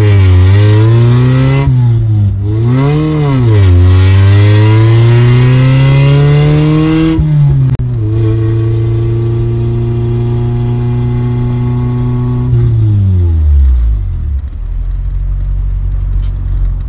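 B20-swapped 1998 Honda Civic's four-cylinder engine heard from inside the cabin under way: the revs rise and dip, climb steadily, drop suddenly at a gear change about seven seconds in, hold steady, then fall away to a low idle near the end.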